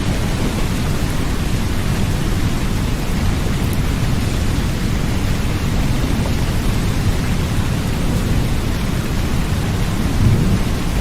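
Steady rain with a deep low rumble underneath, swelling slightly about ten seconds in.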